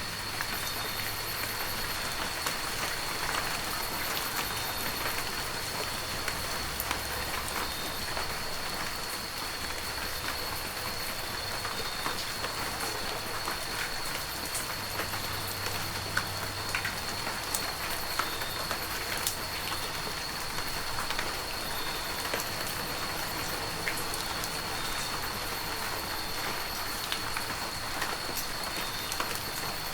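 Heavy rain falling steadily, with many scattered drop ticks through the hiss and a thin, steady high tone running beneath it.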